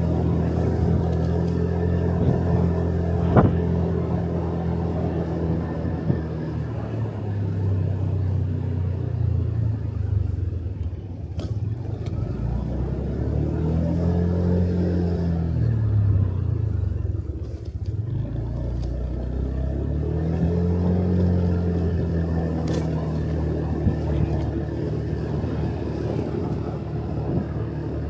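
Motorcycle engine running steadily while riding, its pitch rising and falling twice, around the middle and again later. A single sharp click comes a few seconds in.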